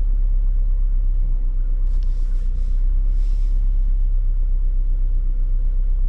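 Steady low rumble of the 1994 Saab 900's four-cylinder engine idling, with a couple of brief rustles about two and three seconds in.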